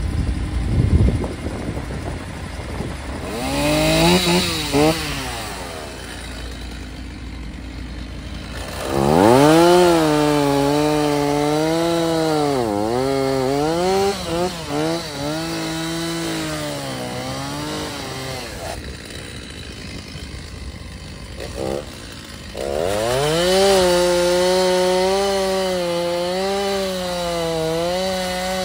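Stihl chainsaw cutting into a large cherry log: a short rev about four seconds in, then two long cuts with the engine pitch dipping and recovering as it bogs under load.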